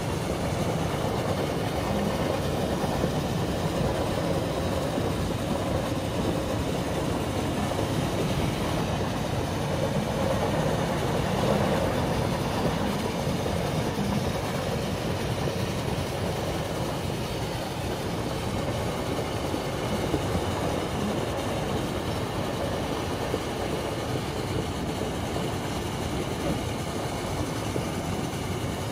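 Steady rumble of a moving train heard from inside a passenger carriage, wheels running on the rails at an even level.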